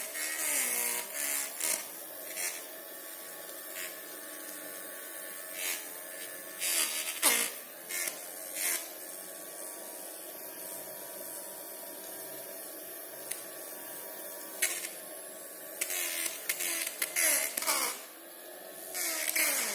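Small motor and fan of a homemade bottle vacuum cleaner running with a steady buzzing hum; its pitch wavers at the start and again near the end. Several sharp clicks and knocks of handling are mixed in.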